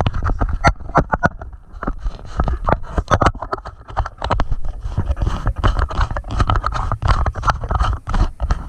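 Heavy rain pelting a parked car and the camera's waterproof housing: a dense, irregular patter of drop impacts over a low rumble, muffled by the housing.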